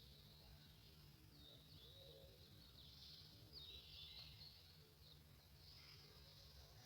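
Birds chirping faintly, with short high calls and quick falling notes repeating every second or so over a low steady hum.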